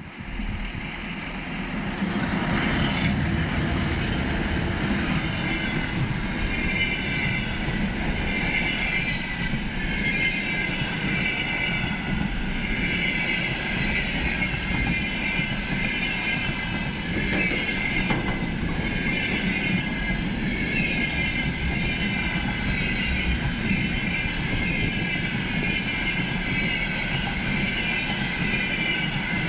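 Container freight train behind a 2ES6 'Sinara' electric locomotive rolling past, a steady rumble and rail clatter with high, wavering wheel squeal. The sound swells over the first two seconds, then holds steady.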